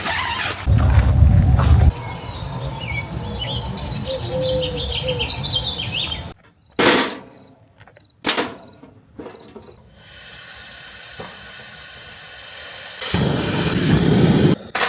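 Insects chirping steadily in the evening air, broken by a few sharp knocks and clatters, with the background changing abruptly several times between short clips.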